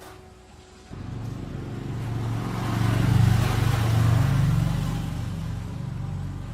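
Restored motorcycle's engine running, coming in suddenly about a second in, rising to its loudest a couple of seconds later and then easing off.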